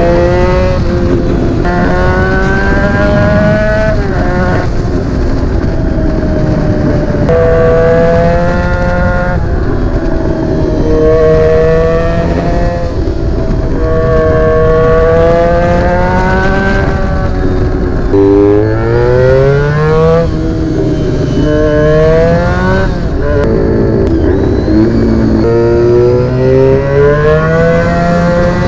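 Honda VFR400 NC30's V4 engine through a GP exhaust, pulling up through the revs and dropping back at each gear change, about every two to three seconds. About two thirds of the way in, the pitch climbs more steeply before falling again.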